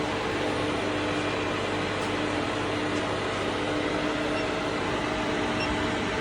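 Steady electrical machine hum with a constant mid-pitched tone, from the test bench running on a repaired Schneider Altistart 22 soft starter after it was switched on.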